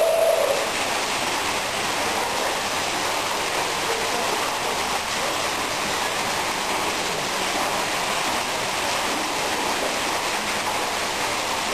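Steady rushing noise with no distinct calls, after a steady tone fades out about half a second in.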